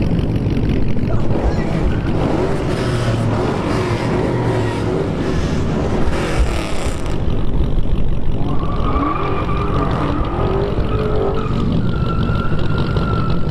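Dodge muscle-car engines running loud, their pitch sweeping up and down as they are revved, with a higher steady whine over the rumble in the last few seconds.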